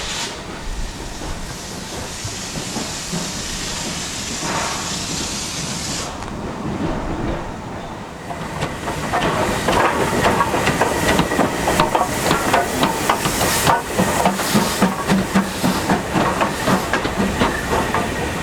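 Steam locomotive venting with a steady hiss that cuts off abruptly about six seconds in. A few seconds later the train gets louder with a rapid, rhythmic clatter of clicks and knocks.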